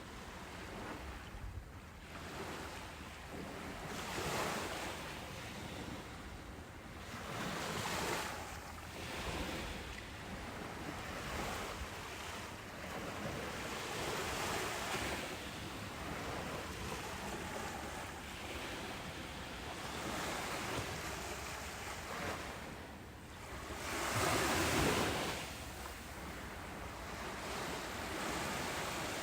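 Ocean surf breaking on a beach, one wave after another, each rising as a swell of hiss and then falling away. The biggest wave comes about three-quarters of the way through.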